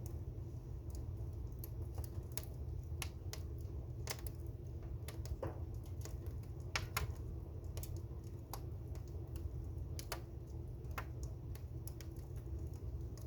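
Blazing fire crackling: irregular sharp pops and snaps over a low steady rumble, with the loudest pop about seven seconds in.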